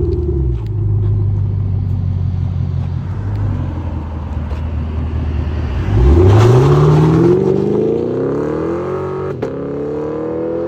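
2017 Chevy Camaro SS's 6.2-litre V8 running through a Flowmaster Flow FX dual exhaust, first at a steady low engine speed, then accelerating hard about six seconds in. The engine note rises steadily for several seconds before levelling off.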